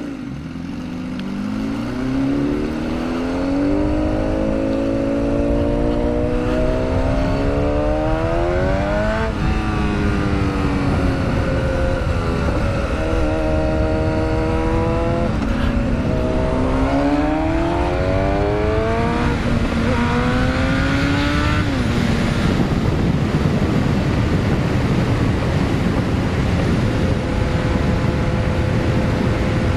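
Honda CBR1000RR's inline-four engine pulling through the gears: revs climb steadily, drop sharply at each upshift (three shifts in the first twenty-odd seconds), then hold fairly steady under heavy wind rush at speed.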